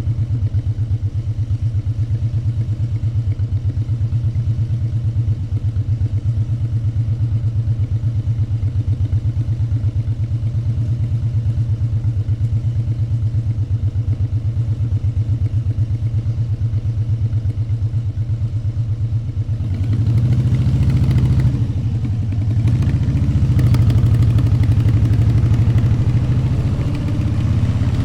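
Motorcycle engine running steadily at low revs with even firing pulses, then revving up and pulling away about twenty seconds in, with a brief drop in level between gears.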